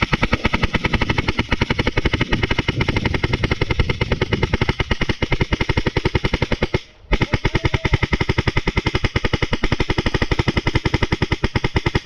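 Paintball marker firing in rapid, sustained full-auto strings, many shots a second, with one brief break about seven seconds in.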